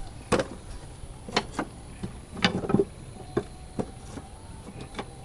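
Wooden top bars knocking and clattering as they are laid side by side across the top of a top-bar beehive box: a string of sharp, irregularly spaced wooden knocks, with a quick cluster of them about two and a half seconds in.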